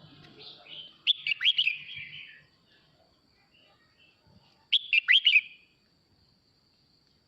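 Male red-whiskered bulbul singing its flock-calling song: two short phrases of quick, warbling notes, the second coming about three and a half seconds after the first.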